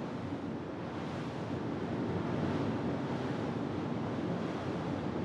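Steady rush of sea and wind.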